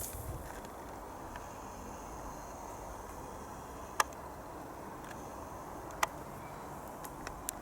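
Steady outdoor background noise with no clear aircraft engine, broken by two sharp clicks about four and six seconds in.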